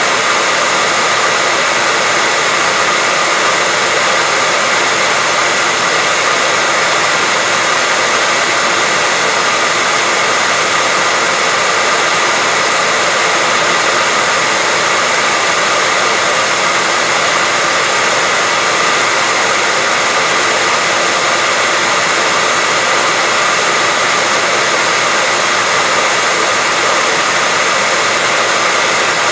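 Hair dryer blowing steadily, a loud even rushing hiss with a faint motor whine and no change in speed, played as continuous white noise to lull a baby to sleep.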